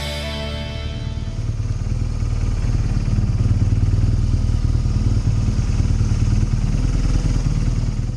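BMW R1200GS boxer-twin motorcycle engine running at road speed with road and wind noise, a steady low rumble that grows louder a couple of seconds in and cuts off suddenly near the end.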